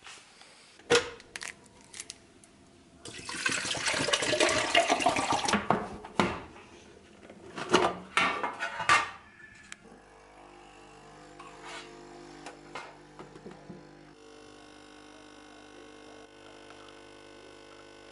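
Water rushing for a few seconds, with clicks and knocks before and after it, then a quieter steady hum with several held tones.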